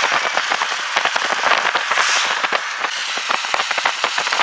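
Rain pattering: a dense, irregular crackle of drops over a steady hiss.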